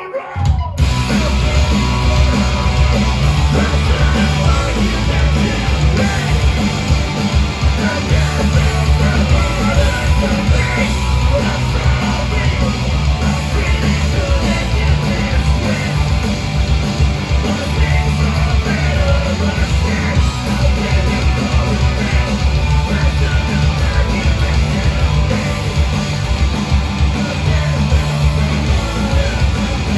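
Live punk rock band playing a loud, full-band song with vocals. The band comes in after a brief gap, under a second in.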